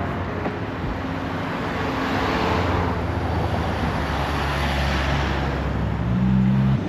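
Street traffic: a vehicle passing by, its noise swelling through the middle and fading, with a brief low engine hum near the end.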